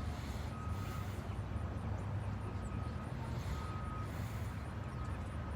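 Steady low engine rumble running without change, with a faint thin whine that comes and goes.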